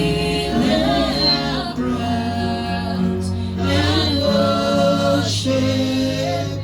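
Group of voices singing a slow gospel worship song in long held notes over a steady low accompaniment.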